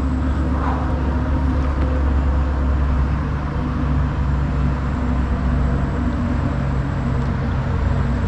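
A steady, unchanging low motor hum.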